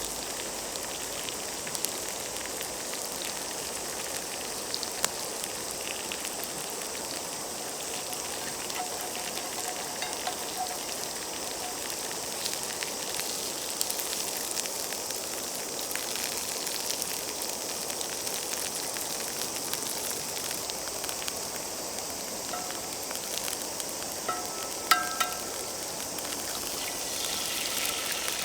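Bacon and eggs frying in a pan over a campfire: a steady sizzle dotted with small crackles, with a couple of sharper clicks near the end.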